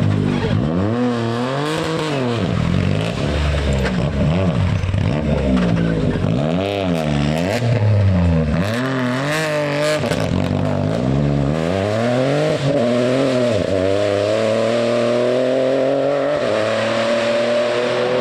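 Rally car engine revving hard and backing off again and again through a twisty section. There are sharp crackles around the middle, then the car pulls steadily in one gear, its pitch rising for the last few seconds.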